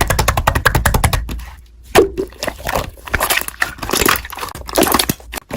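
Slime being squeezed and pressed by hand, giving a fast run of crackling pops and clicks, with a short lull a little before two seconds in.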